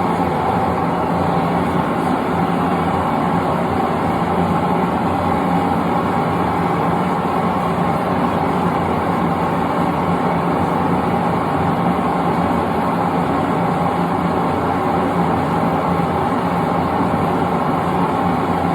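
Propane forge burner running with a steady roar.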